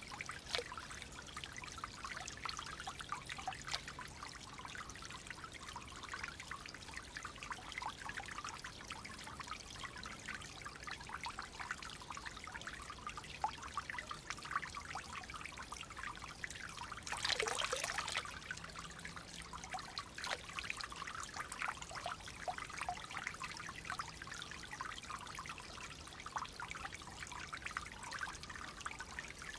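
Flowing water trickling and gurgling steadily, with one louder gurgling surge a little past halfway.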